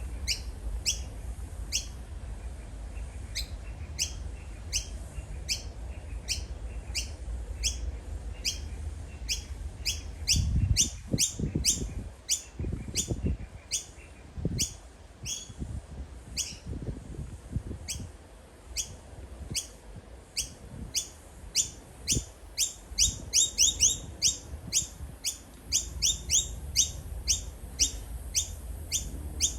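Noisy miner giving short, sharp high calls over and over, about two a second, speeding up into quick runs about three-quarters of the way through. A low rumbling noise runs under the calls about a third of the way in.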